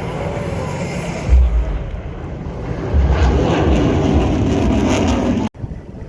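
Loud jet engine roar from an RSAF F-15SG fighter passing at slow speed, with heavy low rumbling swells about a second in and again from about three seconds on. It cuts off suddenly near the end.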